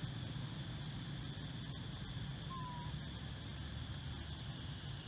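Steady outdoor ambience: a low rumble under a faint high, even hiss, with one short whistled note, falling slightly, about halfway through.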